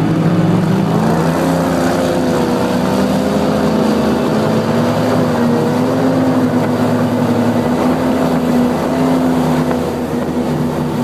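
Fountain 35 Lightning powerboat's engines running under way on the water, a steady engine drone whose pitch wavers slightly, over constant water noise.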